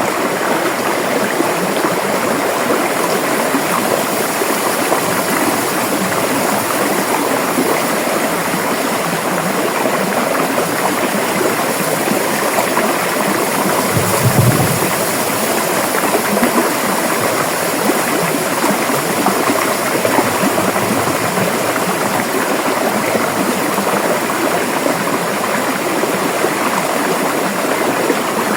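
River water flowing steadily, a continuous rushing sound, with a brief low thump about halfway through.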